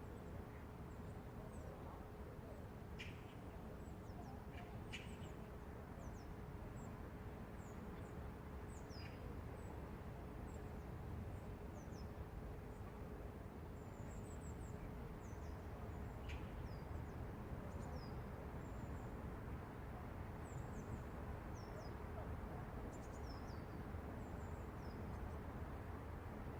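Small birds chirping, many short high chirps scattered throughout, over a steady low hum of distant city noise. A faint steady tone in the hum fades out about halfway.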